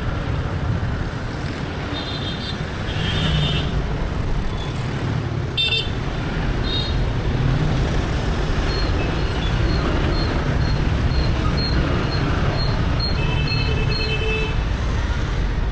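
Busy urban motorbike and car traffic: a steady low rumble of engines and tyres with several short horn toots. A run of short high beeps, about two a second, sounds from about halfway through until near the end.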